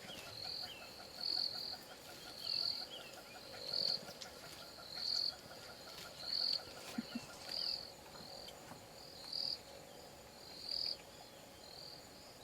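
Insects chirping in the bush, a short high chirp repeating about once a second over a faint steady trill, with a few faint short falling calls in the first few seconds.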